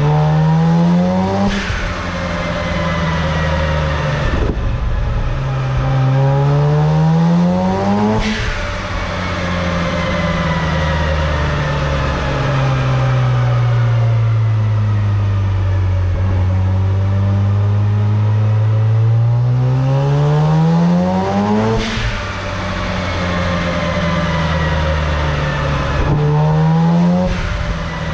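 Mazda RX-7's rotary engine revved hard again and again, the pitch climbing quickly and each climb ending in a sharp backfire bang as it spits flames from the exhaust, about five times. In the middle the revs sag and climb back slowly over about ten seconds before the next bang.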